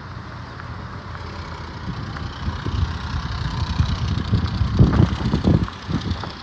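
2011 Chevrolet Malibu engine running, growing louder partway through and easing off near the end.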